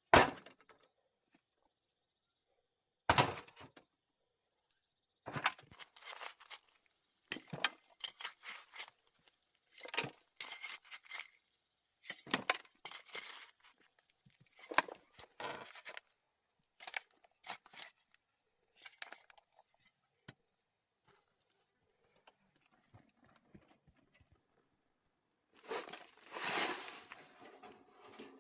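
Irregular knocks, clicks and scrapes of objects being handled, in short separate bursts, with a sharp hit at the very start and a longer spell of scraping near the end.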